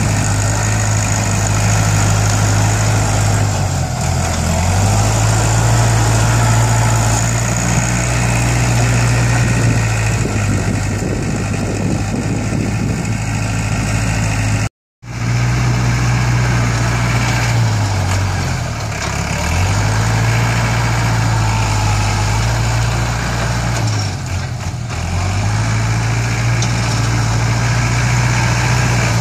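ISEKI NT554 tractor's diesel engine running under work while grading soil, its pitch dipping briefly and recovering a few times. The sound cuts out for a moment about halfway through.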